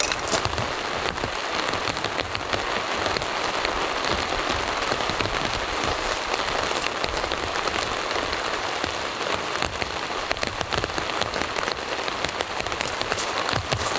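Steady rain falling, an even hiss with many sharp individual drop hits throughout.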